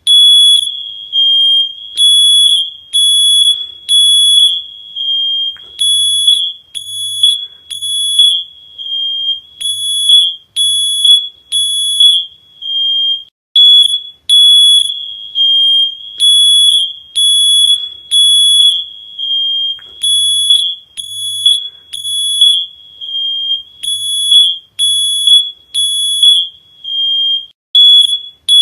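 High-pitched electronic alarm beeping over and over, a single shrill tone pulsing in short groups separated by brief pauses, like a smoke alarm.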